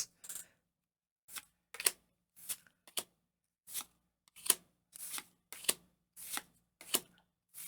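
Pokémon trading cards being slid one by one off a freshly opened booster pack: a run of short, sharp card-on-card swishes, roughly two a second at an uneven pace.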